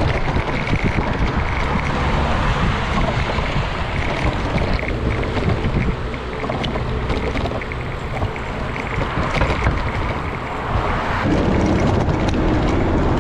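Wind rushing over the microphone while riding a bicycle, a steady noise that eases a little midway and picks up again near the end.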